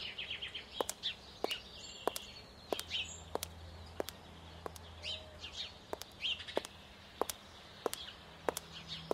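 Birds chirping faintly, with a sharp click repeating evenly about one and a half times a second.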